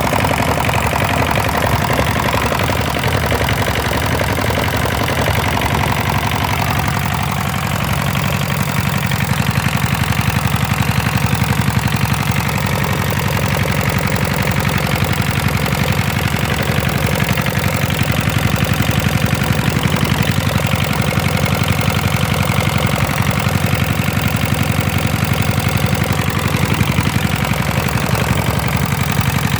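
Hatz diesel engine running steadily at an even speed, with a fast regular diesel knock; it eases slightly about seven seconds in and then runs a little louder again.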